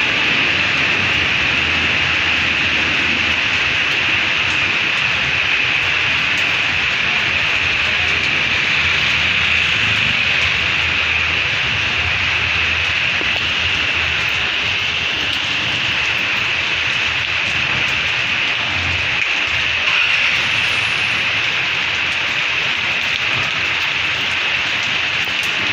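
Heavy rain in a summer storm, a loud, steady hiss that doesn't let up.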